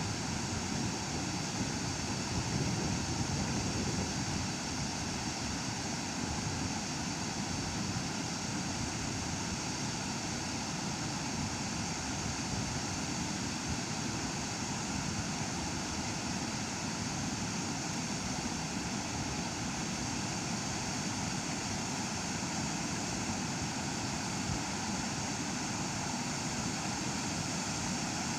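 Waterfall on a river: a steady rush of falling water with no pauses or changes.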